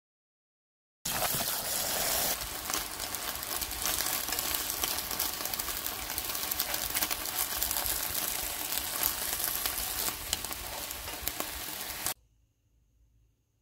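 Seaweed and spinach sizzling and crackling in a hot pan as they are stirred with chopsticks. The sizzle starts suddenly about a second in and cuts off abruptly near the end.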